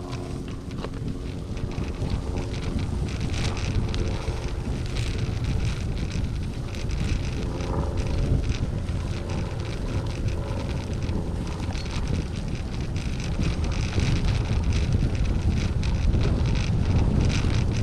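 Wind buffeting the microphone of a gravel bike being ridden, with the crackle and rattle of the tyres and bike over a rough surface; the wind grows louder toward the end.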